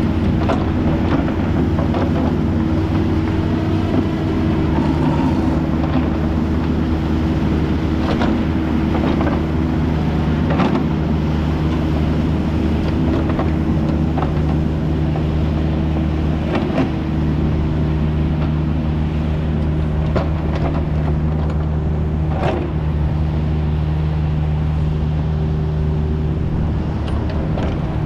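Kubota U55 mini excavator's diesel engine running steadily under working load, with a few short knocks and clanks as the machine digs and moves dirt.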